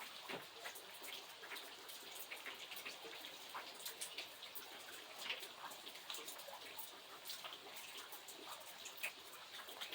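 Steady rain falling, an even hiss with many separate drop ticks scattered through it.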